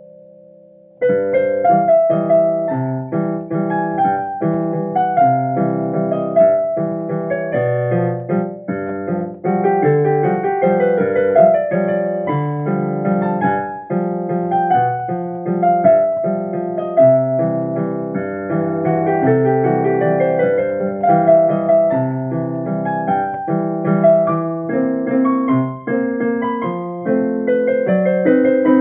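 Piano being played: a held chord dies away, then a lively piece starts about a second in with a steady bass under a running melody.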